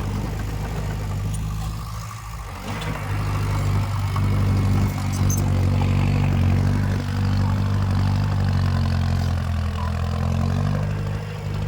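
Diesel engine of heavy earthmoving equipment running steadily with an even low tone, growing louder about a quarter of the way in and easing off near the end.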